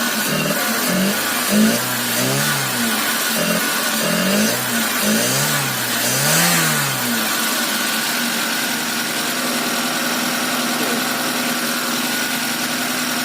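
Freshly overhauled Proton Iswara SOHC 4G13 engine, fitted with 4G15 pistons and a racing cam, revved in about six quick throttle blips, then settling to a steady idle.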